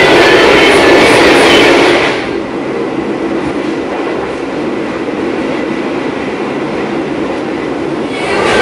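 Running noise heard from inside an Indonesian executive-class passenger coach on the move: a steady rumble of the train on the rails. It drops to a quieter, duller level about two seconds in and comes back louder near the end.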